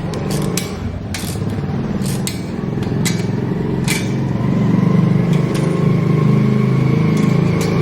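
Motorcycle engine running steadily, a little louder from about three seconds in, with several sharp clicks and taps over the first four seconds.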